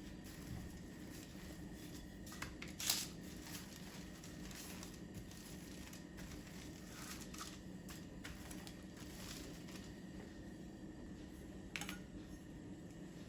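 Soft rustling and crinkling from hands handling things, with a sharper crinkle about three seconds in and another near the end, over a low steady hum.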